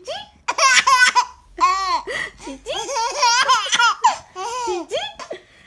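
Baby laughing in repeated high-pitched bouts of giggles and squeals.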